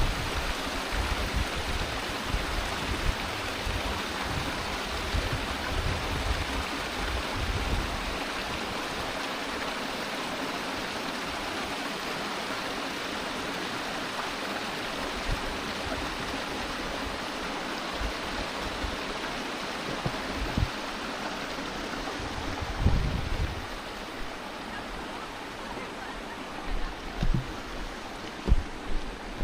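Stream water running over rocks below a small waterfall: a steady rush of water that drops a little in level about three quarters of the way through, with a few soft thumps near the end.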